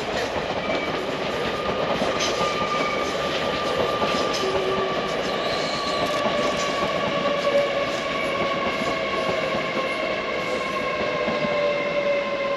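Passenger train running through the station, its whine falling slowly in pitch over a continuous rumble, with scattered clicks of wheels over the rail joints.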